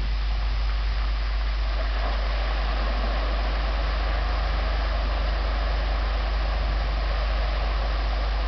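Nissan Patrol 4WD's engine running steadily as it drives away through muddy water holes, over a steady deep rumble.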